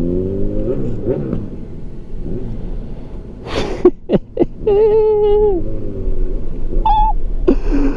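Chevrolet Silverado pickup engine revving up and easing off, then a low road rumble, heard from inside the cab. About halfway through there is a short hiss and two sharp clicks, then a held hooting tone lasting about a second that drops in pitch as it ends, and shorter hoots near the end.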